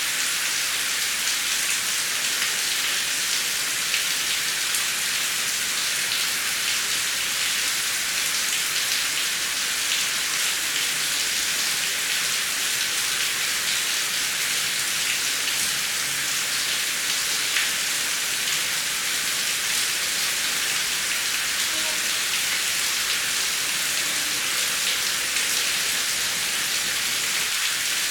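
Heavy rain falling steadily, a dense even hiss with fine pattering of drops on a surface.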